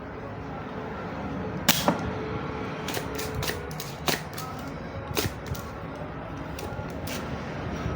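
Scattered sharp clicks and taps of small tools and parts being handled on an electronics workbench during board work, the loudest pair about two seconds in.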